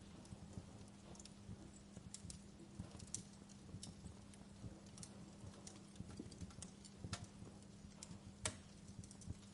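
Fireplace fire crackling faintly, with irregular sharp pops and snaps, the strongest a little after eight seconds in, over a steady low hum.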